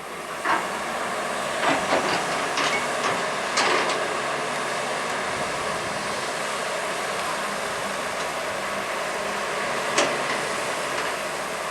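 Hydraulic excavator working, its engine running steadily with a hiss, broken by several sharp metal clanks in the first four seconds and one more near the end.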